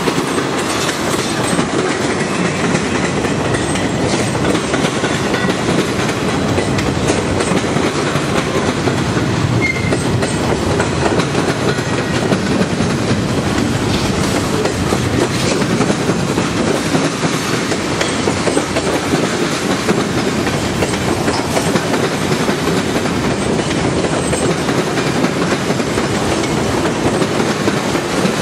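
A CN train's cars rolling past on the track, a steady loud noise of steel wheels on rail that holds even throughout.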